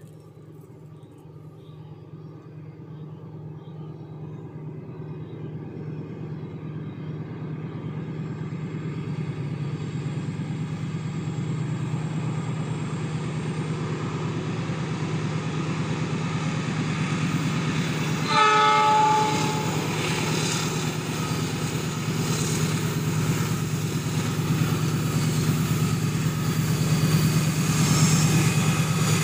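Argo Parahyangan passenger train approaching behind its diesel locomotive, the engine drone growing steadily louder. The horn sounds once for about a second some eighteen seconds in. Wheel and rail noise builds near the end as the train reaches the curve.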